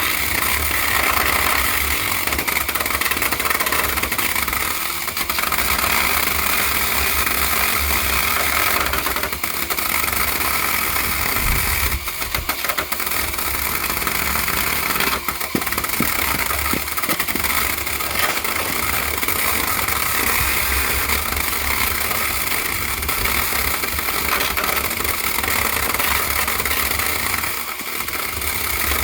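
An engine running steadily, with a few brief knocks over it.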